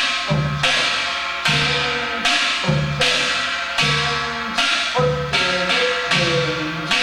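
Yanggojang: a Korean barrel drum struck with the left hand together with a kkwaenggwari (small brass gong) struck with a stick in the right, playing a slow Gyeongsang-style jajinmori rhythm. Uneven strikes come about two a second, each with a deep drum tone and a bright metallic ring.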